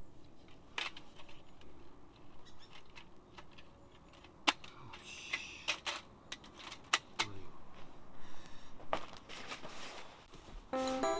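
Scattered light clicks, taps and small metal clinks of camping gear being handled and set down, coming at irregular intervals with a few sharper knocks.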